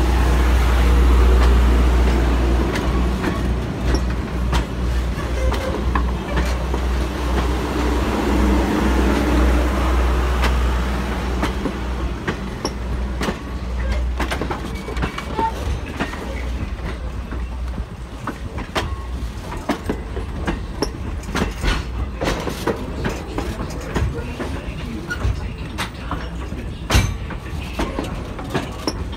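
Wooden passenger railroad coaches rolling past at close range: a heavy low rumble that fades after about ten seconds, then the wheels clicking over the rail joints, with an occasional louder clack.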